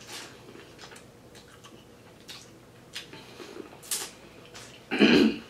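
Close-miked eating sounds: a person biting and chewing corn on the cob coated in seafood-boil sauce, with scattered sharp wet mouth clicks and smacks. A louder, brief mouth sound comes near the end.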